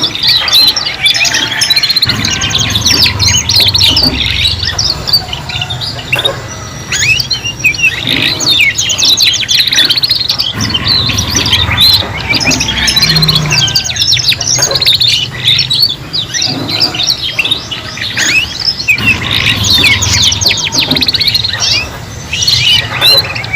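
Several young domestic canaries singing at once, learning their song: dense, rapid trills and chirps overlapping without a break.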